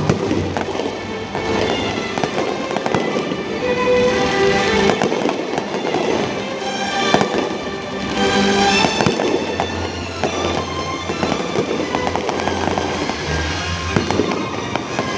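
Fireworks bursting and crackling in quick succession over loud music from the show's soundtrack.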